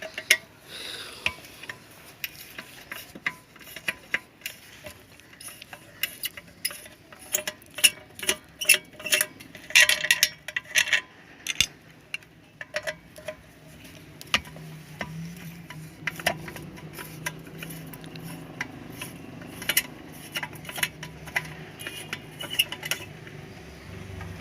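Screws being worked out of an electric iron's metal body with a screwdriver: irregular metallic clicks, taps and clinks of the tool and loosened parts.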